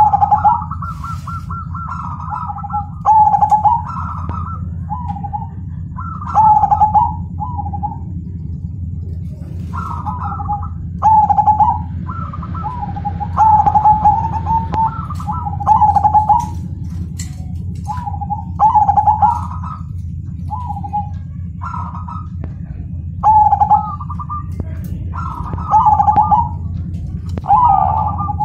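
Zebra dove (perkutut) of the Majapahit type cooing its song, a short phrase stepping down in pitch every two to three seconds, over a steady low hum.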